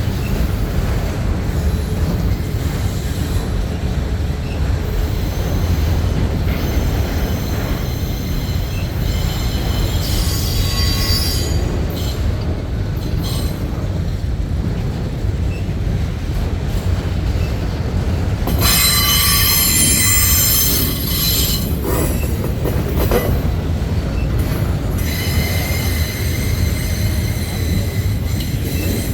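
Freight train cars rolling past with a steady low rumble, the wheels squealing in high-pitched rings three times: about ten seconds in, again around nineteen seconds, and near the end.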